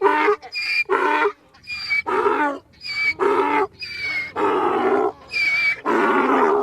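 An animal giving a rapid series of short, loud, pitched calls, about ten of them, ending abruptly.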